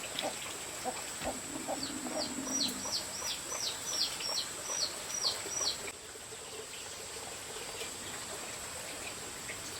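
Chickens and birds calling: short low clucks in the first couple of seconds, then a quick series of high, falling chirps about three a second that stops at about six seconds, over a steady high-pitched tone.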